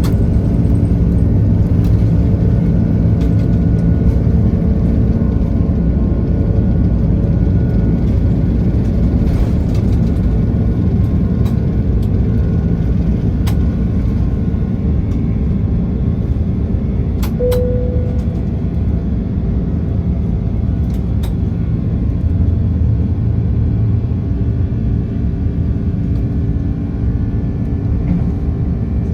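Airliner cabin noise aboard an Airbus A330-300: a steady low rumble with engine hum and a few sharp knocks or rattles. A short tone sounds about two-thirds of the way through.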